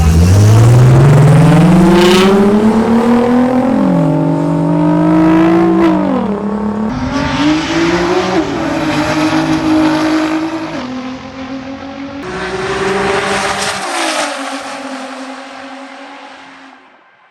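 Two street cars racing at full throttle, their engine notes climbing steeply and dropping back at upshifts a few seconds in, then holding steadier and fading away near the end.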